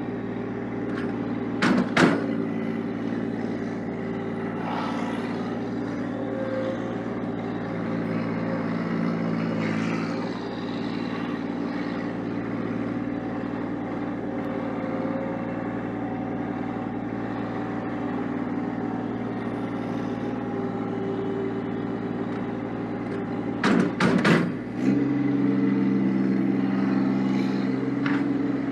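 Massey Ferguson 1725 sub-compact tractor's diesel engine running steadily while plowing snow. Sharp clanks sound about two seconds in and again as a short cluster near the end, after which the engine runs a little louder at a changed pitch.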